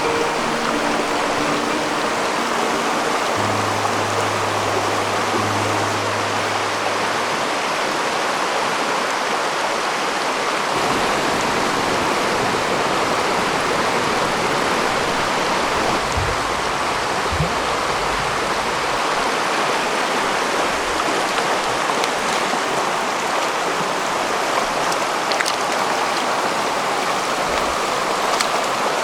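Mountain stream water rushing steadily over rocks. Background music plays under it for the first seven seconds or so, then stops.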